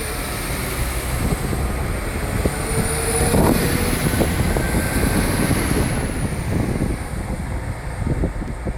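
Northern passenger train pulling out of the station: a steady rumble with a faint high whine that rises and falls, and a brief louder knock about three and a half seconds in.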